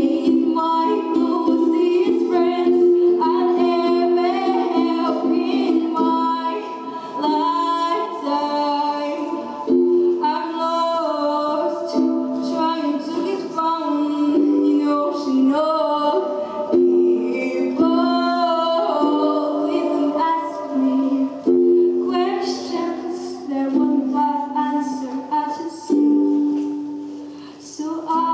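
A girl singing a song solo, with instrumental accompaniment.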